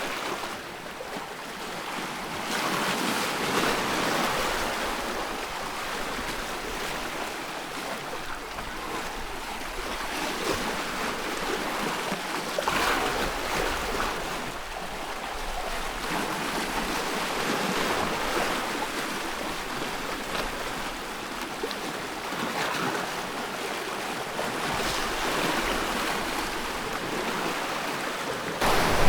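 Ocean waves breaking and washing in a continuous rush of surf, swelling and easing every few seconds.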